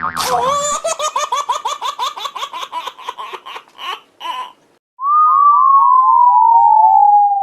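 Cartoon-style giggling laugh sound effect: quick, repeated high-pitched notes that slow down and fade over about four seconds. A warbling tone then slides slowly downward.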